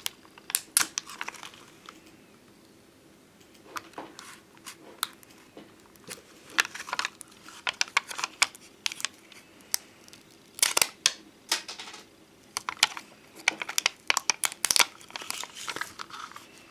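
Glossy domed 'bonbon drop' and ohajiki-style stickers and their sheets being handled and peeled: irregular crinkling, peeling and small sharp clicks in uneven bursts.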